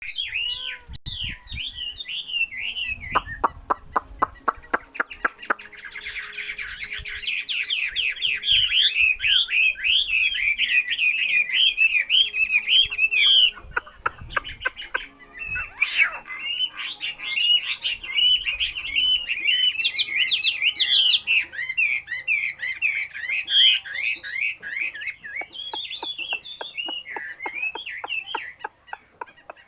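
A caged songbird singing a long, fast run of chirps and warbles almost without a break, with sharp clicks scattered through it.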